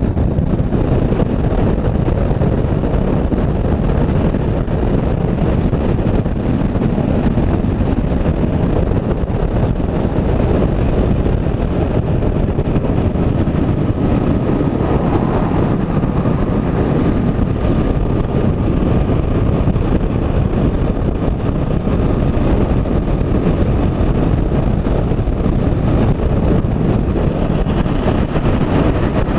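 Motorcycle riding along a highway: steady wind rush on the microphone over engine and road noise, with a faint whine near the middle.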